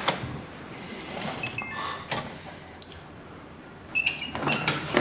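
Faint small metallic clicks and clinks over quiet room tone: a few about two seconds in and a cluster near the end.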